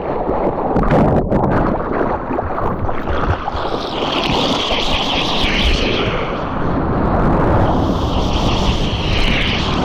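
Wind buffeting the microphone over the rush of ocean surf, with two swells of hissing whitewater from breaking waves.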